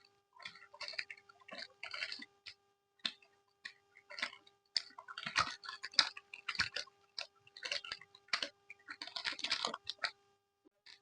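Close-miked chewing of Yupi gummy candy: wet, sticky mouth sounds in irregular short bursts, over a faint steady hum.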